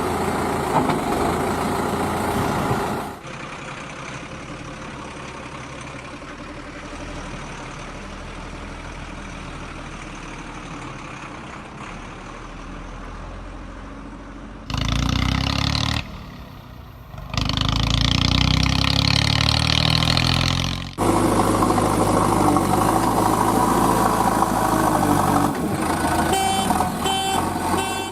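Heavy diesel vehicle engines running, in several short clips cut together, with the level jumping at each cut.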